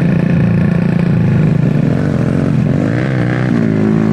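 Honda Astrea Grand motorcycle's single-cylinder four-stroke engine running steadily under way. About two and a half seconds in, a higher pitch rises and falls, then holds steady.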